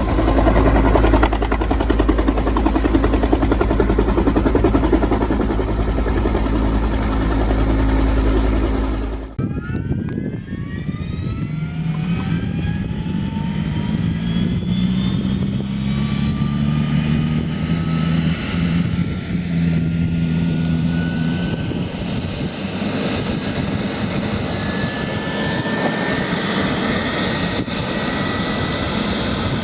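Bell 407 helicopter's Rolls-Royce 250-C47 turboshaft engine starting: a whine rises steadily in pitch over many seconds, with a low steady hum from the rotor building underneath. Before it, a loud steady rumble with heavy low noise runs for about nine seconds and cuts off abruptly.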